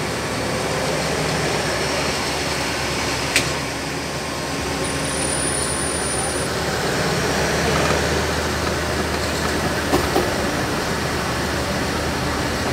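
Passenger train behind an Alsthom diesel-electric locomotive, heard from the coach as it rolls slowly through a station: a steady rumble with a low engine hum that grows stronger about four and a half seconds in, a sharp clack about three seconds in and a few more clacks near the end.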